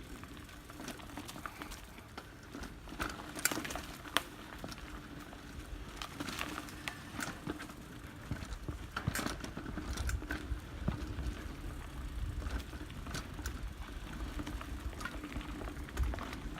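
Giant mountain bike rolling along a dirt trail: the tyres crunch and crackle over the ground, with scattered clicks and rattles from the bike. A low rumble comes in from about ten seconds in.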